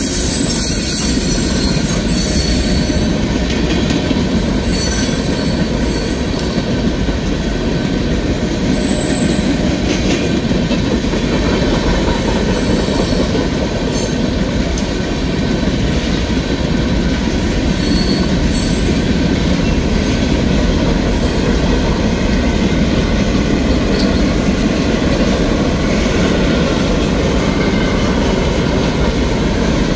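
Freight train of tank cars and boxcars passing at speed, steel wheels running loud and steady on the rails with no letup.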